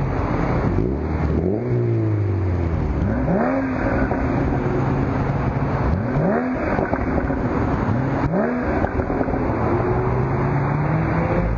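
Sports car engine with a loud exhaust running, blipped several times so that each rev rises quickly and then falls back to a steady low note.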